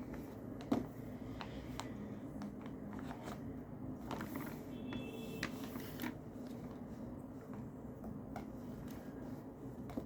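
Desk handling sounds of paper and pen: scattered small clicks and rustles, with a sharper click about a second in and a busier rustling stretch near the middle, over a steady low background noise.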